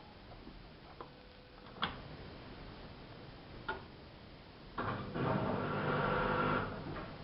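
AEG Lavamat 5210 washing machine early in its cycle: a few faint clicks, then about five seconds in a motor hums steadily for about two seconds and dies away.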